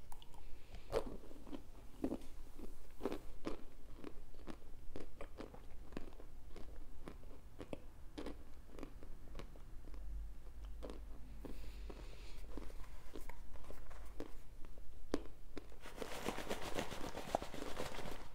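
Close-up chewing and crunching of hard baked cornstarch chunks, with rapid sharp crackles bite after bite. Near the end the crunching turns denser and noisier.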